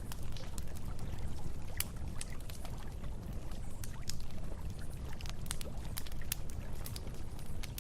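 Wood campfire crackling, with irregular sharp pops scattered throughout, over the steady rush of flowing river water.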